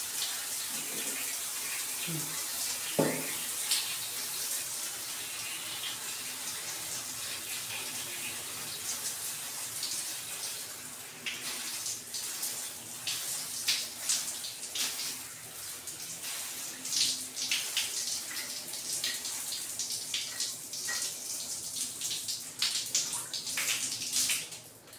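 Cold water running steadily, then from about halfway in broken up by irregular splashing as hair is wetted and washed under it.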